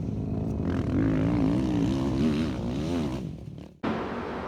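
Two-stroke dirt bike engine running with the throttle worked, its pitch rising and falling several times, then cut off abruptly near the end, leaving a low steady hum.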